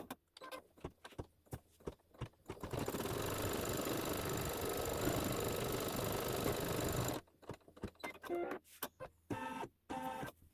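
Embroidery machine stitching a placement outline: a few clicks, then the machine runs steadily for about four and a half seconds and stops abruptly, followed by more scattered clicks.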